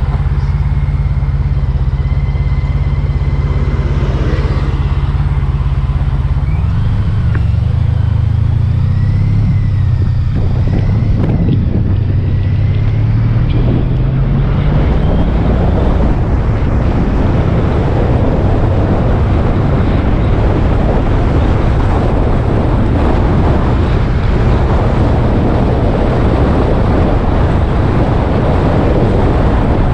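Motorcycle engine running at a steady low speed, then pulling away about seven seconds in, its pitch climbing as it accelerates. After that a steady rush of wind and road noise takes over as the bike travels at speed.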